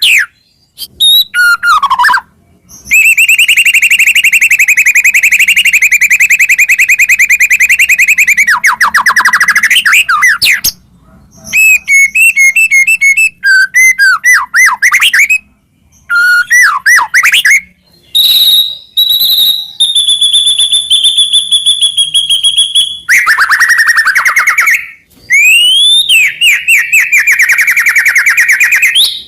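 White-rumped shama (murai batu) singing loudly in a varied song: a long, fast trill, bursts of quickly repeated notes, and sweeping and held high whistles, broken by short pauses.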